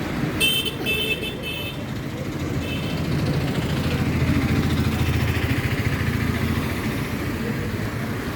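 Express train pulling into a station: a low rumble of the rolling train swells in the middle and eases off. Three quick short high beeps come in the first two seconds.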